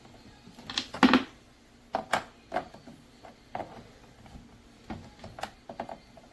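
A series of irregular clicks and knocks, the loudest pair about a second in, like small objects being handled and set down.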